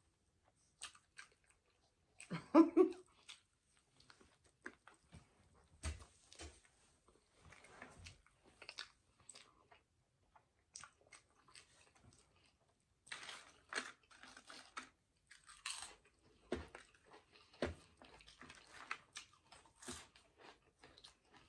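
Close-miked chewing and biting of a chili cheese hot dog: scattered short mouth clicks and smacks, with a brief voiced hum about two and a half seconds in.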